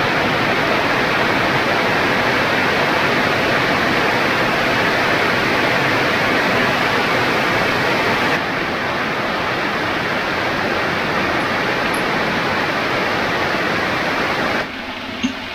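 Rain falling steadily and streaming off the edge of a hut's roof in a constant rushing hiss, a little quieter about eight seconds in and quieter again near the end.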